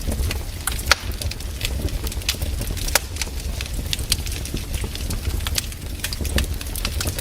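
Campfire crackling, with many irregular sharp pops and snaps over a low steady rumble; the strongest snaps come about a second in and about three seconds in.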